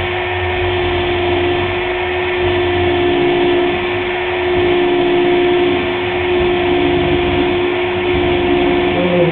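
Electric drill running at steady speed with a constant whine, boring a hole in a wooden trim board.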